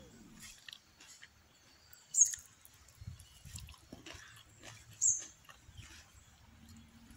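Chewing a crispy fried fish cutlet close to the microphone: soft mouth sounds and small crunches. Two sharp, high clicks stand out, about two seconds and five seconds in.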